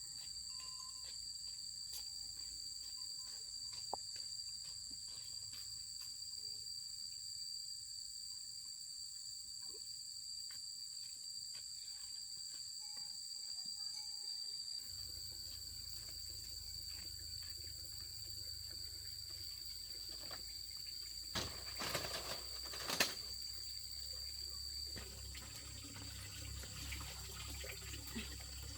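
A steady high-pitched insect drone, two even tones held throughout, with scattered faint clicks and a few louder knocks about 21 to 23 seconds in.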